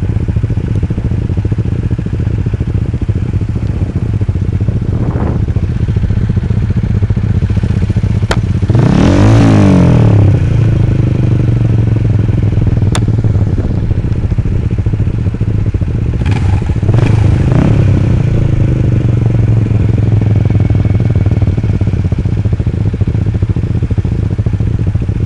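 Motorcycle engines idling steadily while stopped at a red light. A vehicle passes close by about nine seconds in, its pitch sweeping and the sound swelling and fading, and another passes about seven seconds later.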